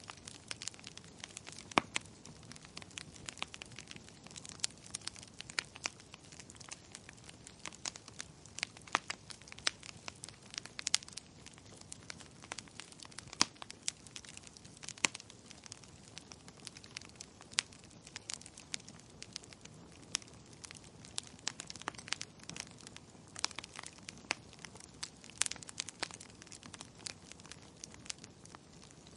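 Burning firewood crackling: irregular sharp pops and snaps, several a second, over a soft steady hiss of the flames.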